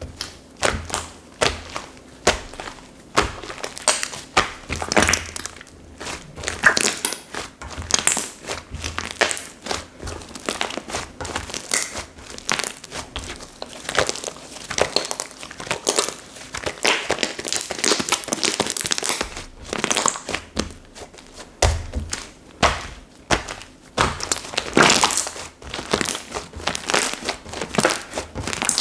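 Slime being squeezed, stretched and pressed in the hands, giving a dense, irregular run of small clicks, crackles and squelches.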